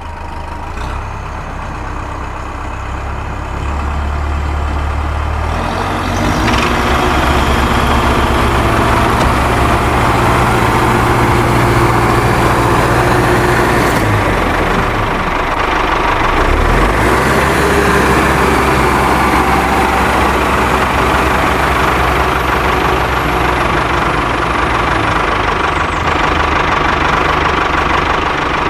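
Small diesel engine running steadily. It grows louder about five seconds in, then holds an even running note.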